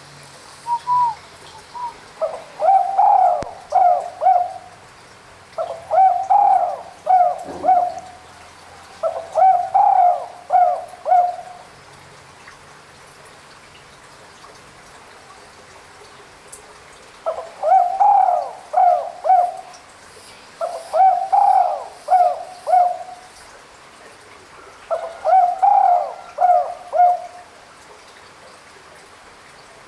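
Spotted dove (tekukur) cooing: six phrases of several low coos each, three in quick succession, a pause of about six seconds, then three more.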